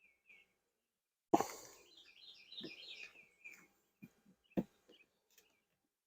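A sharp knock about a second in, followed by a small bird's quick twittering chirps, with a few lighter knocks and clicks later.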